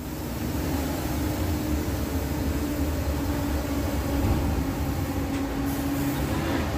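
A moving bus: the diesel engine drones steadily with low rumble and road noise, building slightly about a second in.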